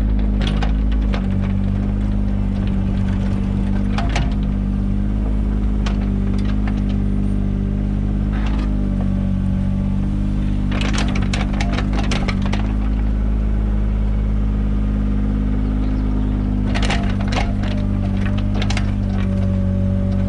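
Mini excavator's diesel engine running steadily under load, with bursts of crackling and clattering several times as the bucket digs and scrapes through soil for a trench.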